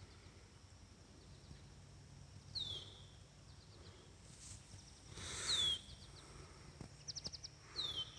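Songbird singing a short phrase three times, about two and a half seconds apart: a sharp downward-slurred note followed by a quick dry trill. A brief rush of noise swells and stops about five and a half seconds in, over a faint low hum.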